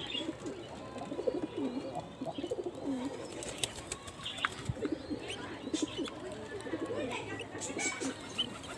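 Birds calling: many low, wavering cooing notes throughout, with scattered short high chirps.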